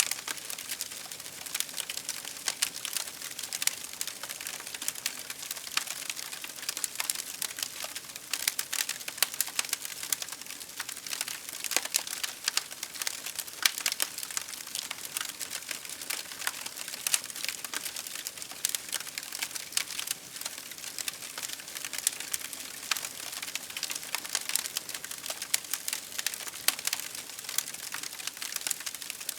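Wood fire crackling steadily: a dense run of small sharp pops and snaps over a soft hiss.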